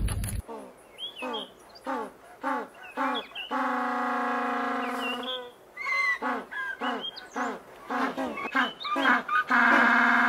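African penguins braying: a run of short pitched honks, then a long steady bray about three and a half seconds in. Then more short honks, and a second long bray near the end.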